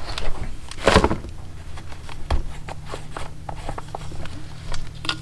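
Small clicks and knocks of chainsaw parts and fuel line being handled during a primer bulb and fuel line repair, with one louder knock and rustle about a second in. A steady low hum runs underneath.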